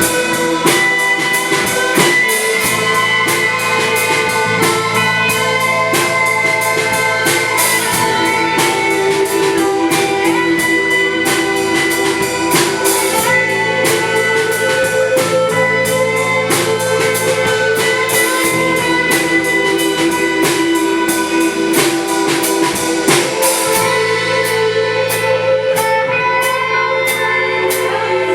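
Live rock band playing an instrumental passage with guitar and drum kit keeping a steady beat, without vocals.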